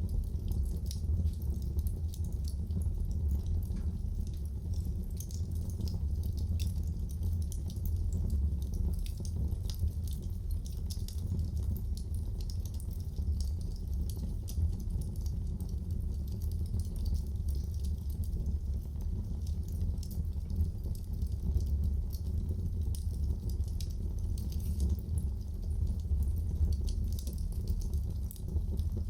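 Wood fire burning in a fireplace: many small, irregular crackles and pops over a steady low rumble of the flames.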